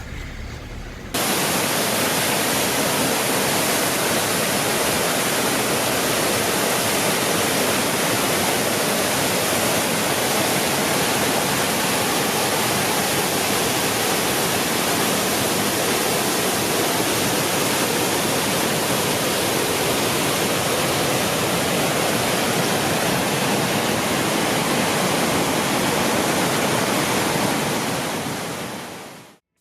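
Rushing water of a flood-swollen mountain stream, a steady dense rush that cuts in about a second in and fades out near the end.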